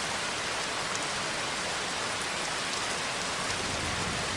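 Steady rain falling, an even, continuous hiss of rain with no individual drops standing out.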